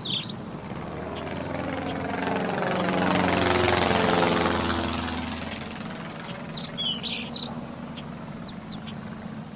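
A small propeller aircraft flying overhead: its engine and propeller swell to their loudest about four seconds in and drop in pitch as it passes, then fade away. Birds chirp before and after it passes.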